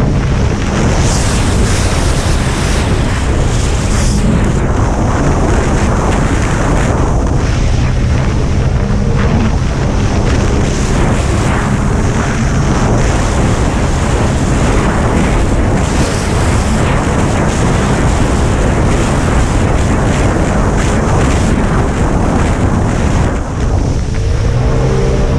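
Racing jet ski running at speed, with water rushing and heavy wind buffeting on the microphone drowning most of the engine.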